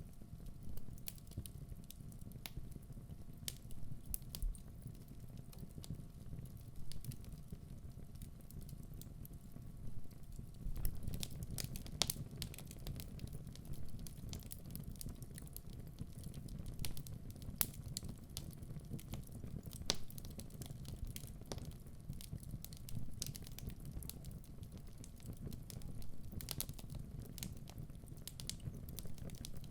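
Wood fire burning in a fireplace: a steady low rumble of the flames with irregular sharp crackles and pops from the burning logs, coming thicker from about a third of the way in.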